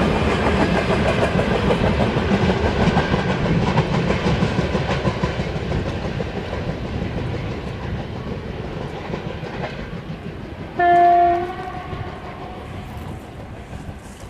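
Freight train wagons rolling past with wheel clatter, the noise slowly fading as the train moves away. About eleven seconds in, a locomotive horn gives one short blast of under a second.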